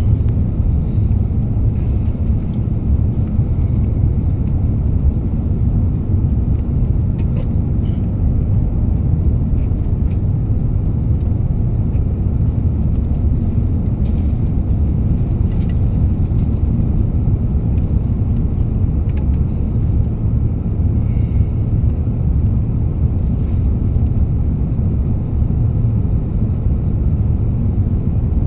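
Steady low rumble of engine and airflow noise heard inside the cabin of an Air India Airbus A350 airliner.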